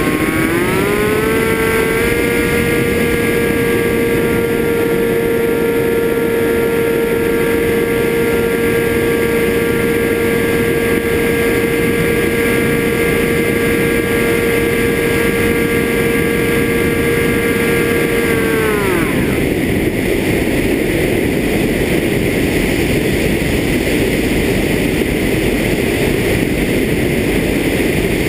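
FPV drone motors whining at a steady pitch over rushing air noise. The pitch rises over the first couple of seconds and holds, then the whine drops away about two-thirds of the way through, leaving only the rushing noise.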